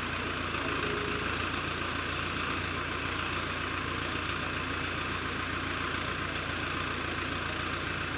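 Hydra crane's diesel engine running steadily, with a constant noisy whine above the engine note.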